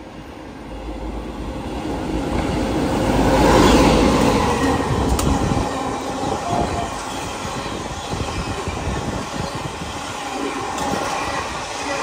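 The Garib Rath Express passing along the platform at modest speed. The locomotive goes by, loudest about four seconds in, then the coaches roll past with a steady rumble and wheel clatter.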